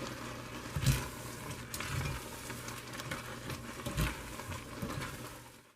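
Food in a hot pan still sizzling faintly just after the burner is turned off, with a few knocks against the pan. The sound fades out near the end.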